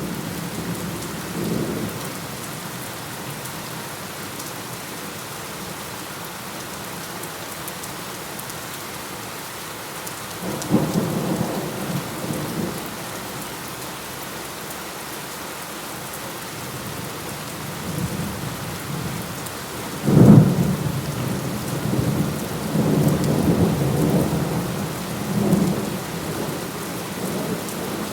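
Steady rain falling through a thunderstorm. Thunder rumbles about a second in and again around ten seconds. A louder, sharp thunderclap comes near twenty seconds and rolls on in swells for several seconds.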